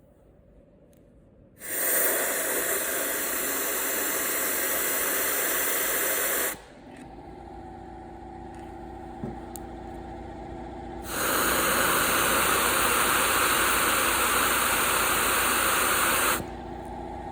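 Two long bursts of hissing air, each about five seconds, from compressed air blown at a cylinder head to check its valves for leaks. Between the bursts a quieter, steady mechanical hum runs.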